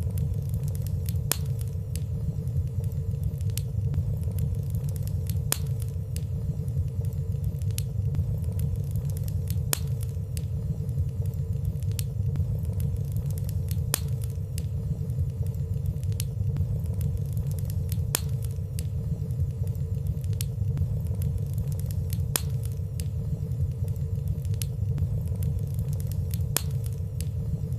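Wood fire burning in a fireplace: a steady low rumble of flames with light, scattered crackles about once a second and no loud pops.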